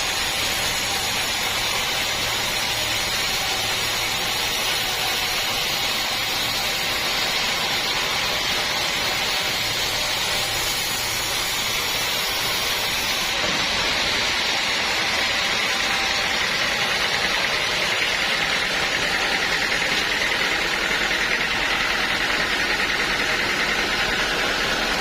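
Sawmill machine running steadily, an even, continuous mechanical noise with no breaks.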